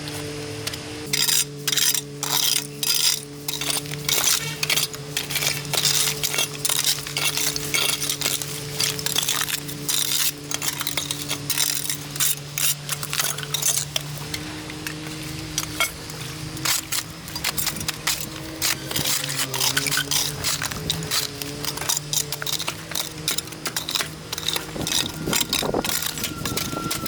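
Frequent clinking, clattering and scraping of hard objects over a steady hum whose pitch shifts a couple of times.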